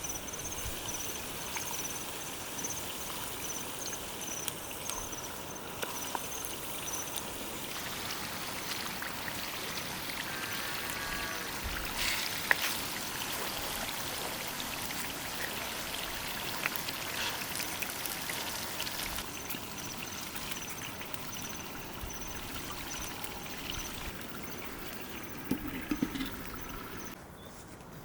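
Steady rush of running water, with a high pulsing trill coming and going and a few light clicks.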